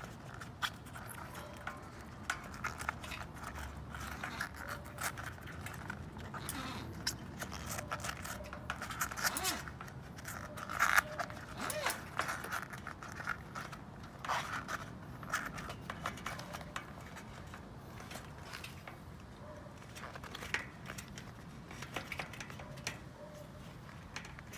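Irregular scraping, rubbing and clicking of hand work, busiest in the middle and loudest about eleven to twelve seconds in.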